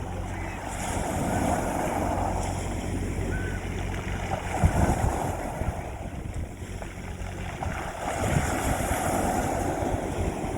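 Sea waves washing onto a beach, the surf swelling and falling back about every four seconds, over a steady low rumble.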